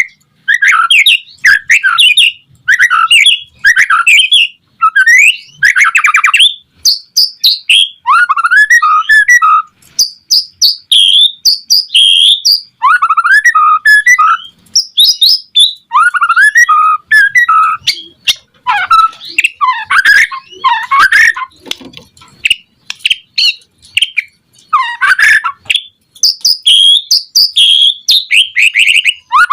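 White-rumped shama singing loudly and continuously in short phrases: fast runs of repeated notes at first, then varied whistles and warbles, with brief pauses between phrases.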